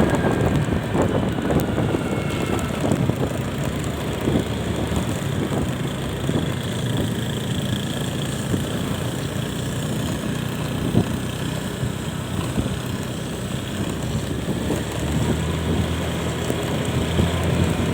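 Motorcycle engine running at a steady cruising speed, with wind and road noise and a few short bumps. The engine note grows a little stronger near the end.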